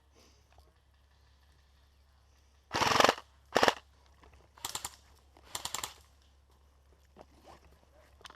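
Airsoft rifle firing four short full-auto bursts, the first and loudest about three seconds in, followed by three quicker bursts in close succession.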